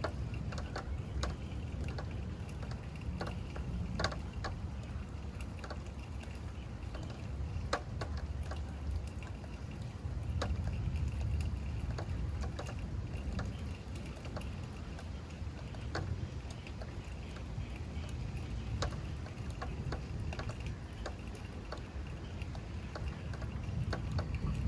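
Rain in a thunderstorm, with scattered drops striking close by as sharp ticks, over a steady low rumble that swells about ten seconds in and again near the end.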